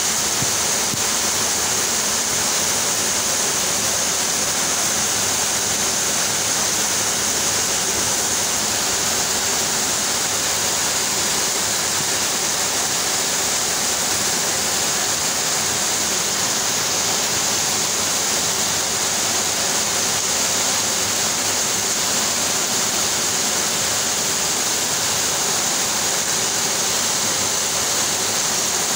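Steady rain falling on a corrugated metal roof and leaves, an even hiss that does not let up.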